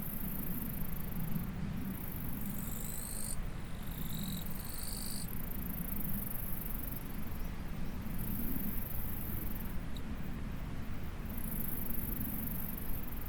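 Insects chirring in a high-pitched buzz that breaks off and resumes every second or two, with a second, lower insect trill for a few seconds about two seconds in, over the steady low rush of a stream.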